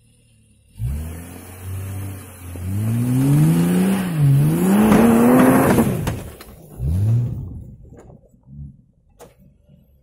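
Off-road SUV engine revving hard, about a second in. Its pitch climbs and swings up and down over several seconds, then drops away about six seconds in, followed by one short blip of the throttle.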